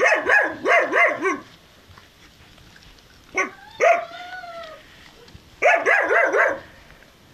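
Four-week-old Turkmen alabay puppies yapping in quick runs of high-pitched yips, one run at the start and another near the end, with a drawn-out, falling whine in the middle.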